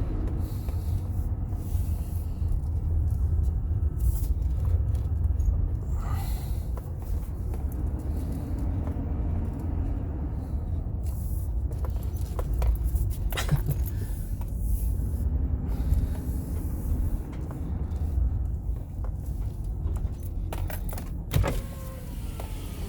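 Car driving slowly, heard from inside the cabin: a steady low engine and road rumble with scattered light clicks and rattles.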